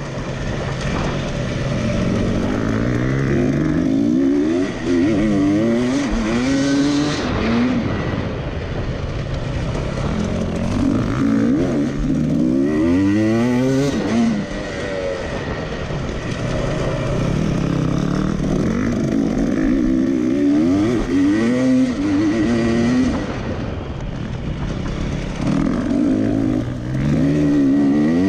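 Racing tractor's engine running hard, its pitch climbing, dropping and climbing again over and over as it accelerates and backs off around the track.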